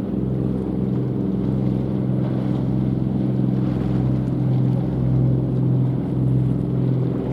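Diesel engine of a small coastal cement carrier running steadily under way, a deep drone with a slow swell and fade.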